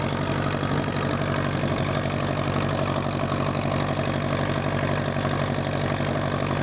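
Ferguson FE35's four-cylinder petrol/TVO engine running steadily at idle.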